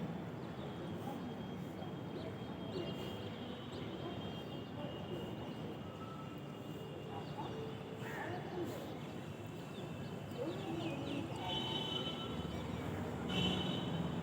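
Birds chirping and trilling over a steady low background noise, with the chirps coming in clusters about three seconds in and again near the end.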